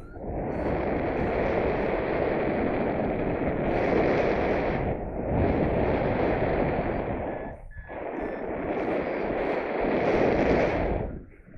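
Strong wind buffeting the microphone in flight under a paraglider, a loud rumbling rush that surges in gusts, briefly dropping twice and falling away near the end.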